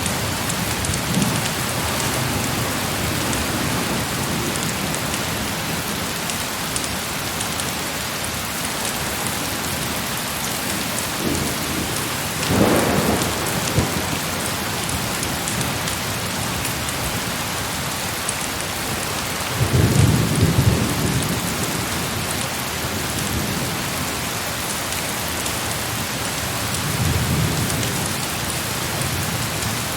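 Heavy rain falling steadily, with low rolls of distant thunder: a short one about twelve seconds in, the loudest about twenty seconds in, and a softer one near the end.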